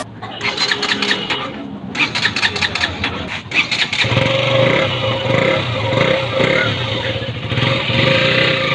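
A KTM Duke single-cylinder motorcycle engine being started, with a quick run of uneven pulses and short breaks over the first few seconds. About four seconds in it settles into a steady idle with its exhaust note.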